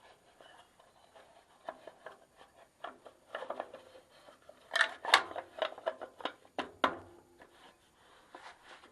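Light knocks and clicks of wooden pieces being handled, irregular, with a few sharper taps about five seconds in and again nearly seven seconds in.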